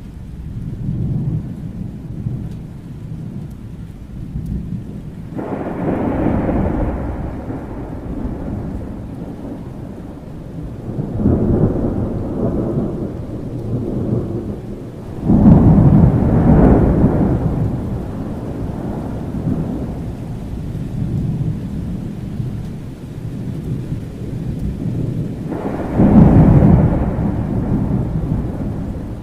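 Thunderstorm: steady rain under rolling thunder, with four rumbles swelling up, the loudest about halfway through and another near the end.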